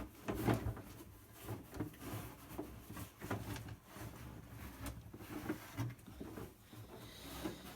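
A horse nudging and mouthing feed buckets and a lidded container: irregular knocks, clatters and rubbing scrapes throughout.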